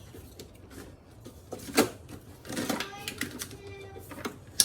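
Hand tools and metal engine parts clinking and knocking during manual work on an engine, a handful of sharp, irregular clanks with a short metallic ring in the middle.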